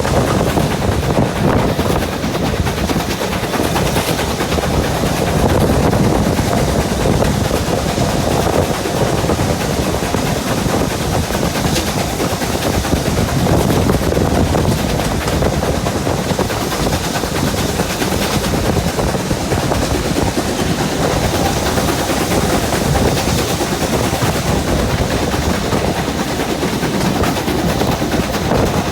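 Train in motion: a steady, loud rumbling noise that neither builds nor fades.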